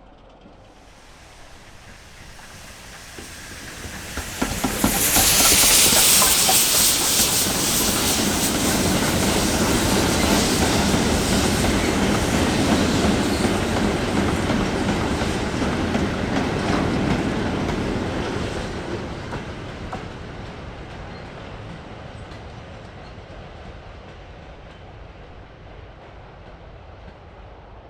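A train on a heritage railway approaching and passing close by. It is loudest from about five seconds in and stays loud with a regular clatter of wheels on the track, then fades away over the last ten seconds.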